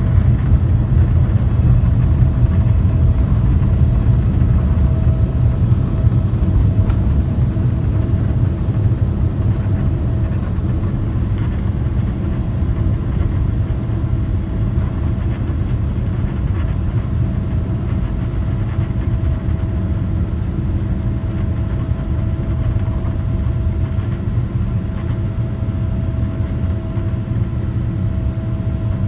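Cabin noise inside a Boeing 787-9 airliner under way: a loud, steady low rumble of engines and airflow with a faint steady hum above it, easing slightly over the stretch.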